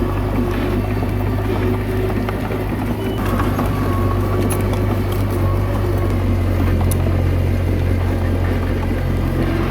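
Komatsu D21A bulldozer's diesel engine running steadily, with a few light clicks.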